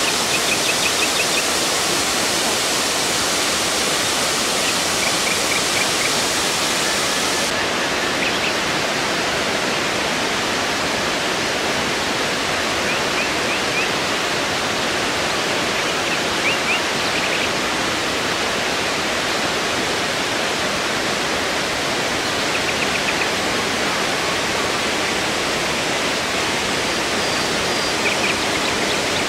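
Dzhuryn River waterfall: falling water making a steady, dense rush, with faint short high chirps now and then.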